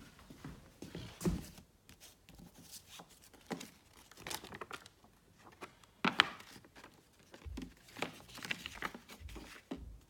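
Paper rustling and crinkling as a folded pocket Tube map is handled and unfolded, with scattered sharp taps; the loudest comes about six seconds in.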